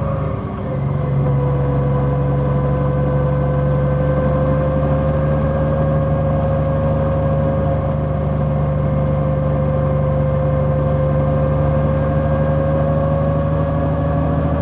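Large motorcycle's engine running steadily while riding, with a steady whine that rises slightly over the stretch. The engine note dips briefly about half a second in, then holds steady.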